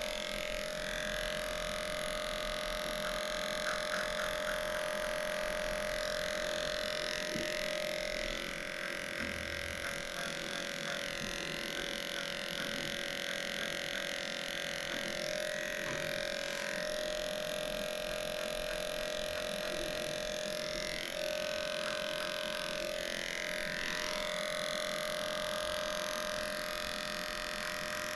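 Electric dog grooming clippers running steadily with a constant hum, their higher sound shifting as the blade works through a matted coat.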